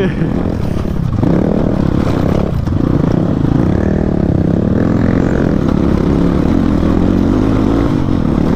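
Motorcycle engine running in a low gear on a rough dirt track, its pitch rising and falling with the throttle.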